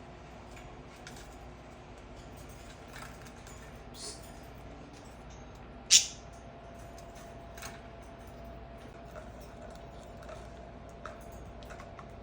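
Pet budgerigars making small sounds: scattered faint clicks and soft chirps, with one short, sharp, loud high sound about six seconds in.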